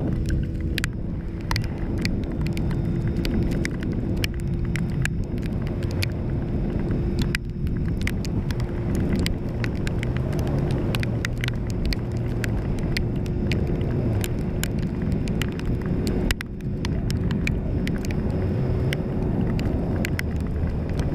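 Suzuki GSX-S750 inline-four motorcycle engine with a Coffman's aftermarket exhaust, running steadily under way. The note dips briefly twice, a third of the way in and again about three-quarters through.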